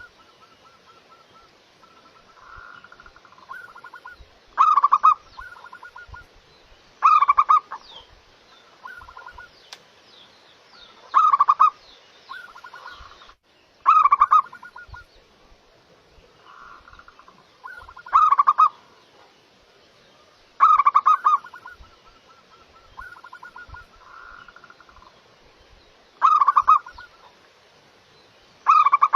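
Zebra dove (perkutut) singing its staccato, stuttering cooing song over and over. Loud phrases come about every two and a half to four seconds, with softer coos between them.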